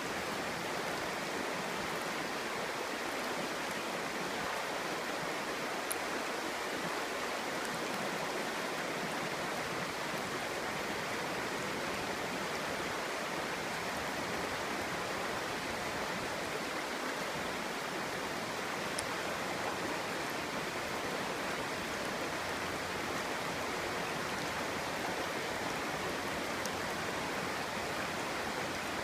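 Clear mountain stream burbling and rushing over stones in a steady, unbroken flow.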